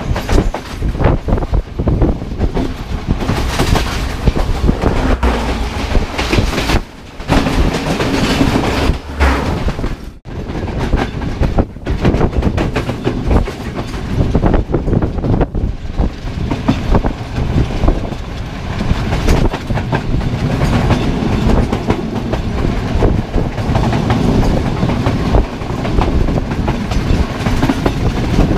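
Train running along the track, its wheels clattering over the rail joints in a steady, noisy rumble, broken by two brief dropouts about seven and ten seconds in.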